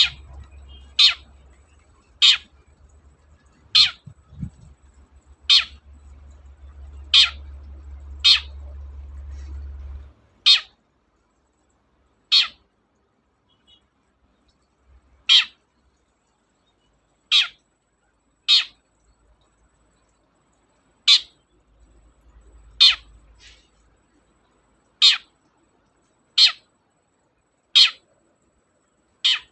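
Long-tailed shrike (cendet) giving a string of short, sharp single calls, each a quick falling note, about one every one to two seconds, with a faint low hum under the first third.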